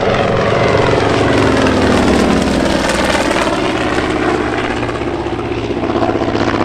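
Propeller-driven piston-engine warbird flying past low, a steady engine drone that swells to its loudest about two seconds in and then eases slightly.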